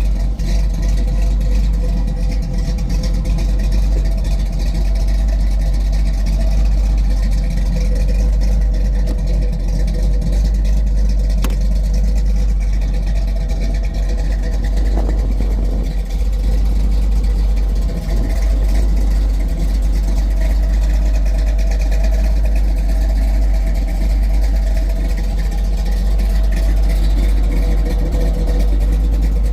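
1968 Pontiac Firebird running steadily: a deep, constant low rumble with a steady hum above it, no revving.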